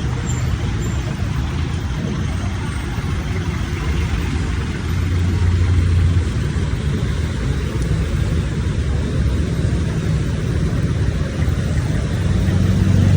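Road traffic: motor vehicle engines running steadily, with a nearer engine rumbling louder about five seconds in and again near the end.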